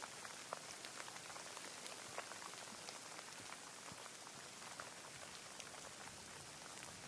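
Steady rain falling, a soft even hiss with many separate drops ticking over it.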